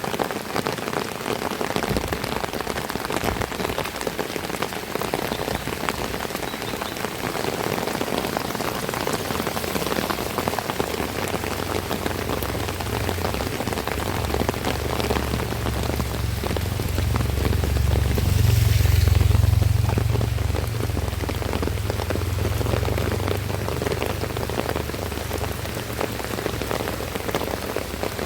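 Heavy rain falling steadily, a dense patter of drops. A low rumble builds about a third of the way in, is loudest just past the middle, then fades.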